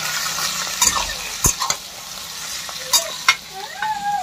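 Chicken gizzards, liver and onions sizzling in hot oil in a steel kadhai, stirred with a metal spatula. The spatula scrapes and clacks against the pan several times over the steady sizzle.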